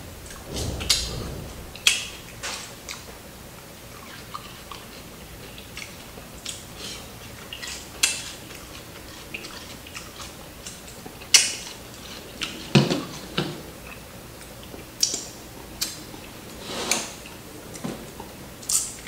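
Crispy fried chicken crunching and being chewed close to the microphone: irregular sharp crackles and clicks, with a few heavier crunches, and light clinks from the glass dish of sauce it is dipped in.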